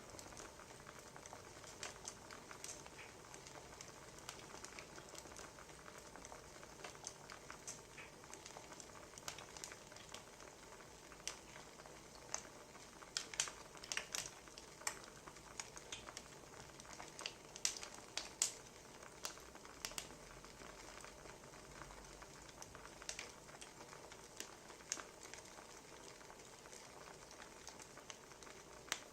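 Wood fire crackling, with a soft steady hiss and irregular sharp pops, a cluster of louder ones about halfway through.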